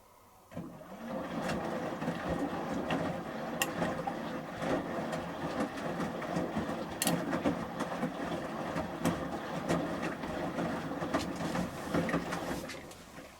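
Samsung Series 5+ washing machine drum turning during the heating and wash stage of a 30 °C shirts programme: wet laundry sloshing and tumbling with scattered sharp clicks. It starts about half a second in and stops shortly before the end, one tumble spell between pauses.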